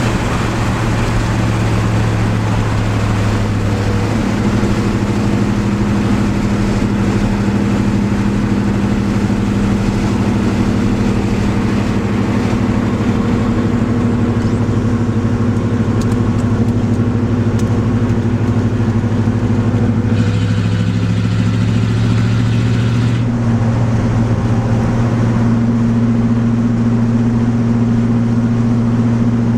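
1987 Pontiac Trans Am's 5.7-litre V8 running loud through its exhaust at a steady cruising speed, a deep steady drone. Its tone changes slightly with throttle about four seconds in and again about two-thirds of the way through.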